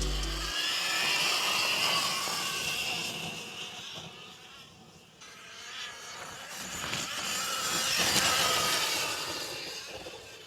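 Surron Ultra Bee electric dirt bike motor whining under way over a rush of noise. The whine fades almost out about halfway through, then builds back up and fades again near the end.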